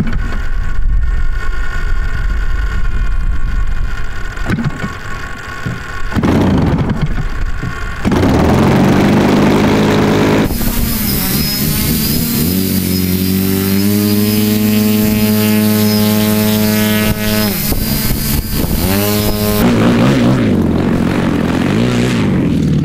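The 100cc two-stroke gasoline engine of a giant-scale RC aerobatic plane running, getting much louder about eight seconds in and rising in pitch as it is throttled up, with a brief drop and climb again near the end.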